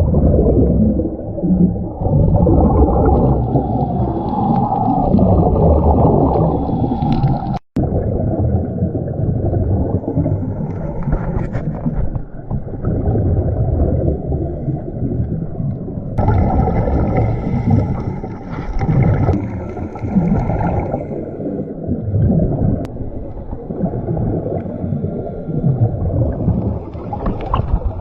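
Muffled underwater sound from a camera in a waterproof housing during a scuba dive: a dense low rumble with gurgling bubbles, cut off for an instant about eight seconds in.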